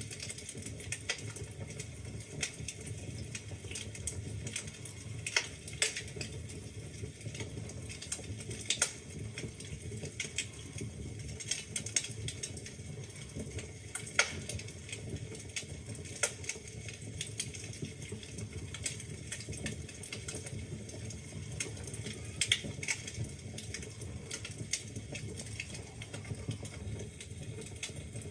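Wood fire burning in a fireplace: irregular crackles and sharper pops of burning logs over a steady low rumble of flame.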